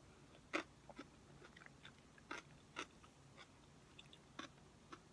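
Quiet close-up chewing of a mouthful of lettuce salad: a few soft, scattered crunches, the loudest about half a second in.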